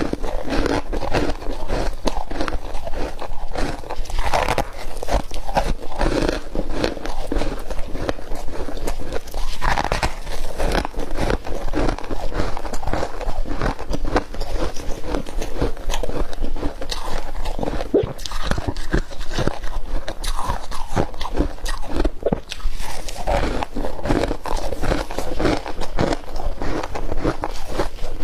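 Frost ice being bitten and chewed close to the microphone: dense, irregular crunching and crackling that goes on without a break.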